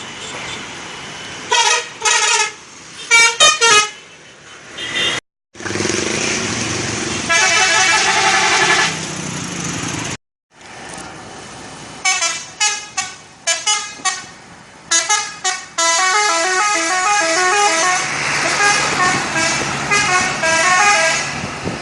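Vehicle horns sounding in a series of loud pitched blasts, some short and some held, with the pitch stepping between tones. The sound breaks off abruptly twice.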